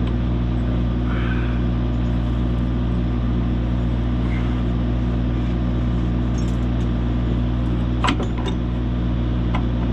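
Heavy machine's engine running steadily at a constant speed, with a single metallic knock about eight seconds in.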